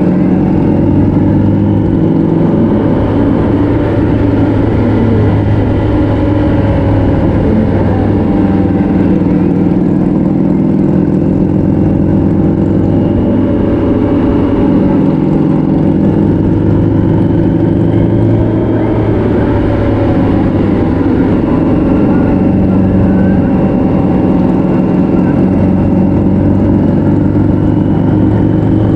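Motorcycle engine running steadily at road speed, its pitch rising and falling gently as the revs change, over a steady rush of wind and road noise.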